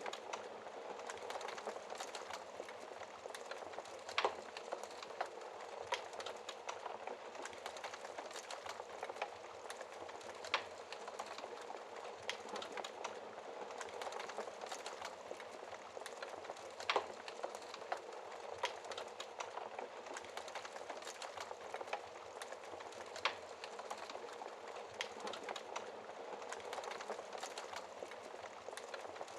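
Wood logs burning in a fireplace: a steady hiss of flames with constant small crackles and a few louder pops.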